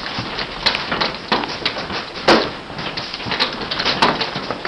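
Hailstones pelting down: a dense, irregular clatter of hard hits over a steady hiss, with a louder knock every second or so.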